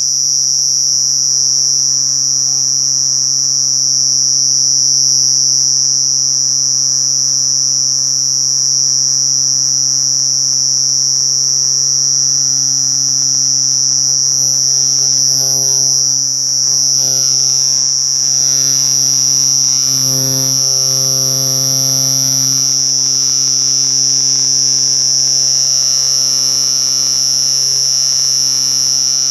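Cricket stridulating in one continuous high-pitched song, with a steady low electrical-sounding hum underneath.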